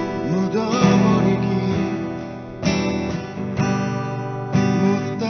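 Acoustic guitar strummed in chords behind a man singing a slow Korean ballad. He sings one phrase near the start, then the guitar carries on alone, with a fresh strum about every two seconds.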